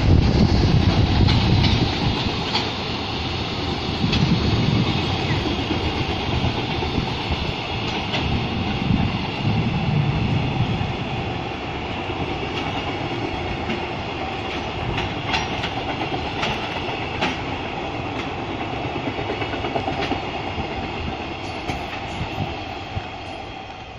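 A train running past, wheels clicking over rail joints over a low rumble, slowly fading away near the end.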